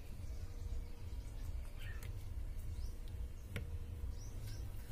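Faint bird chirps, several short rising calls, over a steady low background rumble, with one sharp click about three and a half seconds in.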